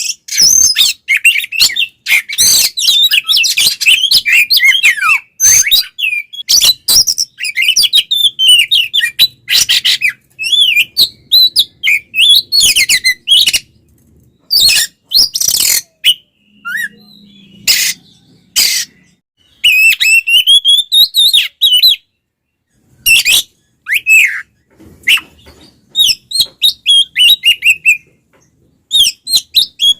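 Oriental magpie-robin (kacer) singing loudly in fast, varied bursts. Whistled notes slide up and down, mixed with many sharp clicking notes, with short pauses between phrases.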